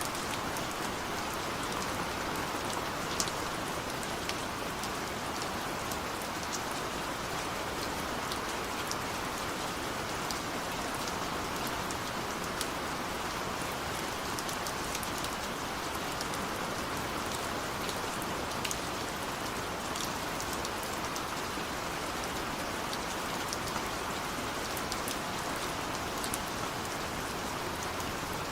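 Steady rain falling, with scattered individual drops ticking against a window pane.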